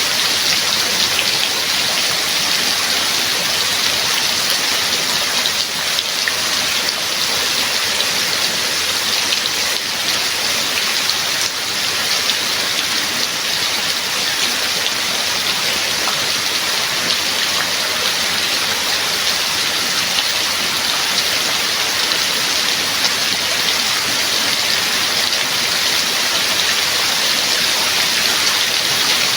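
Steady heavy rain, a dense hiss of many drops falling without let-up.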